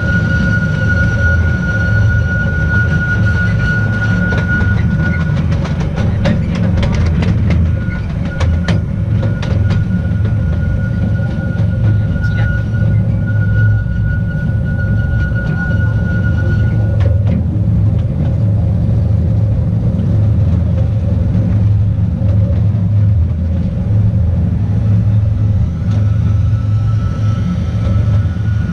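Narrow-gauge Artouste train running along its track, a steady low rumble of wheels on rail. A high, steady wheel squeal rings over it and stops about two-thirds of the way through, then comes back faintly near the end. A run of sharp clicks comes a few seconds in.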